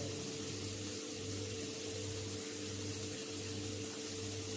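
Chopped onions frying in butter in a wok, a steady sizzle over a low, constant hum.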